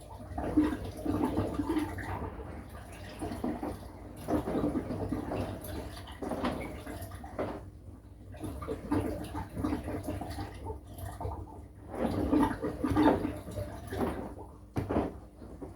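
Washing machine in its wash cycle: water sloshing in the turning drum, coming in swells every couple of seconds over a steady low hum.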